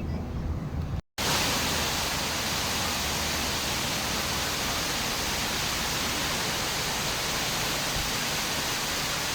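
Waterfall rushing: a steady, even hiss of falling water that starts abruptly about a second in, after a brief low rumble.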